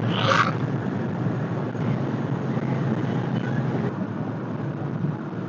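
Steady road and wind noise with a small scooter's engine running while riding. Just after the start there is a brief, brighter burst of noise.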